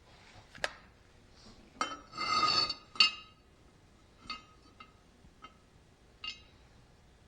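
Metal parts clinking and knocking together as they are handled, about eight strikes with a short rattle in the middle. A steel piece rings briefly at the same pitch after most of the knocks.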